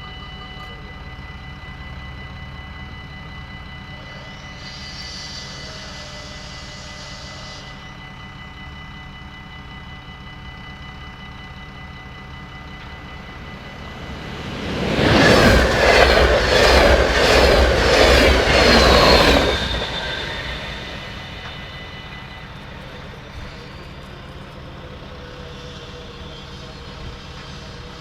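Dutch level-crossing warning bells ringing steadily while a train passes over the crossing about halfway through. For about five seconds the train is loud, its wheels clattering in a regular rhythm over the rail joints.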